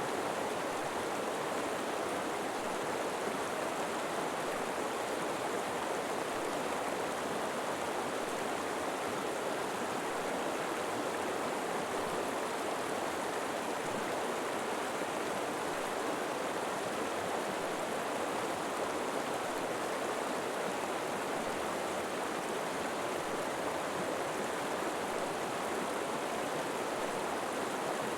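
A river flowing steadily over rocks, an even rushing of water with no breaks or changes.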